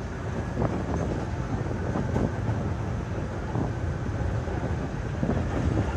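Cabin noise inside a moving MRT-3 rail car: the steady low rumble of the train running along the track, with a few faint knocks.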